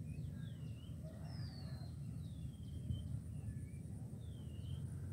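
Birds calling: short whistled notes that swoop down and up, several of them over a few seconds, above a low steady rumble.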